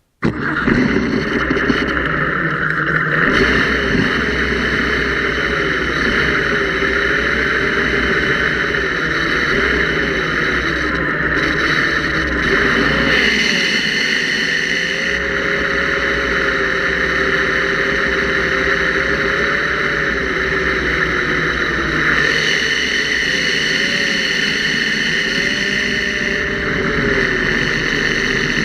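Engine with hydraulic lifters and a mechanical fuel pump running steadily, its pitch wavering slightly now and then. It carries the noise the owner is chasing, which he first suspected was the lifters, rockers or fuel pump and later puts down to a tired or weak valve spring.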